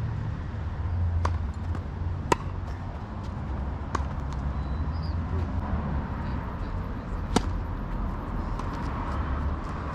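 Tennis ball struck by rackets and bouncing on the court: four sharp pops, about a second in, near two and a half seconds, at four seconds and the loudest past seven seconds, over a steady low rumble.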